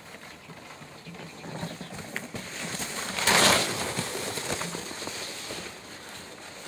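Sled sliding over packed snow: a rushing hiss that swells to its loudest about halfway through, then eases off.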